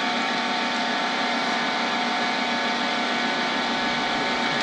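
Lathe running steadily with no load, a whine of several fixed tones over a steady hiss.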